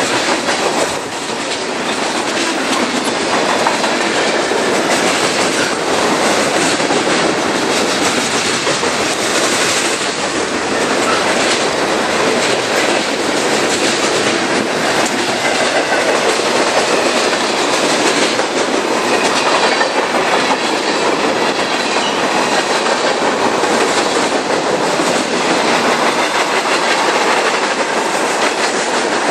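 A train's cars rolling past, a steady rumble with the wheels clicking over the rail joints.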